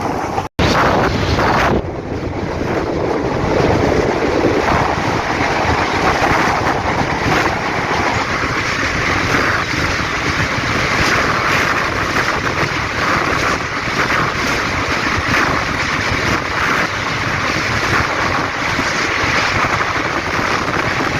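DEMU (diesel-electric multiple unit) train running, heard from on board as a steady rush of running noise with wind buffeting the microphone. A brief break about half a second in.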